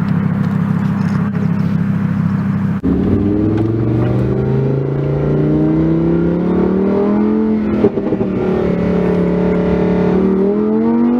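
Lamborghini Huracan Performante's naturally aspirated V10 running steadily, then, after an abrupt change about three seconds in, pulling with engine pitch climbing slowly. There is a brief break near the eight-second mark, a steady stretch, and a fresh climb near the end.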